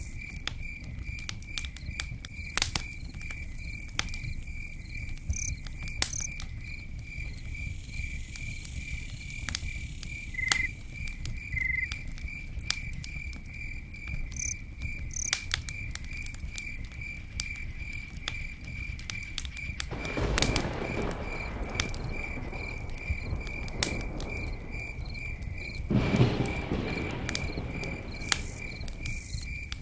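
Campfire burning with scattered sharp crackles and pops over a low steady rumble, while an insect chirps steadily two or three times a second. Two louder rushing swells of noise rise and fade, about two-thirds of the way through and again near the end.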